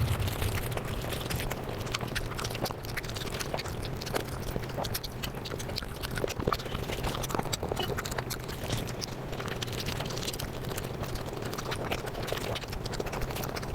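Close-miked chewing and eating sounds sped up to several times normal speed, a dense run of rapid small wet clicks.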